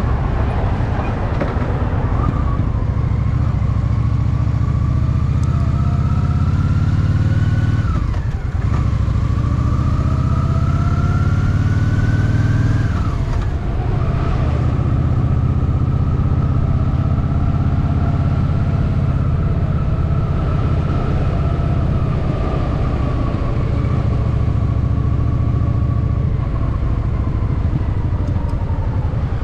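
Honda Shadow VT750 V-twin motorcycle engine pulling under acceleration. Its pitch climbs, drops sharply twice as it shifts up a gear, then holds nearly steady while cruising.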